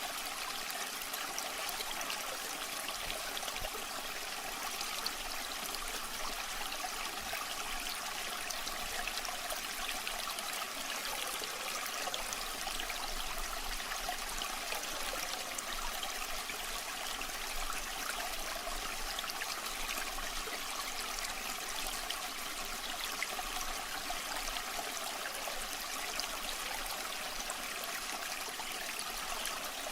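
Waterfall water running steadily: a continuous, even splashing with most of its sound in the middle and high range and little deep rumble.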